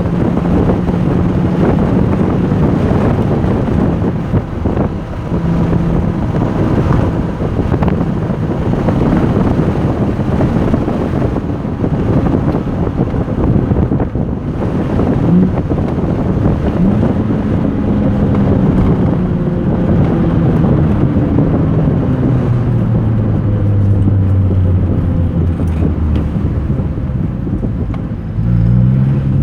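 Porsche 996 Turbo's twin-turbo flat-six running hard on track, with heavy wind noise on the microphone. Its pitch glides down slowly through the second half as the car slows, then climbs sharply again near the end.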